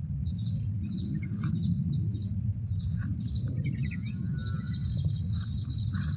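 Small birds chirping, many short high-pitched calls several a second, over a steady low rumble.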